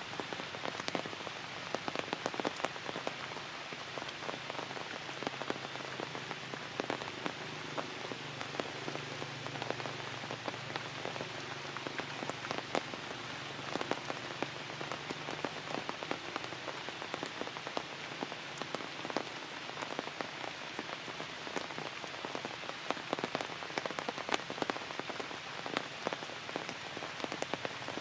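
Steady rain falling on tree leaves, an even hiss of rain broken by many sharp single-drop hits.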